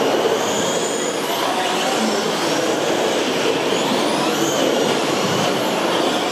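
A pack of RC short course and stadium trucks racing, a steady rush of running gear and tyres with high motor whines rising and falling as they speed up and slow.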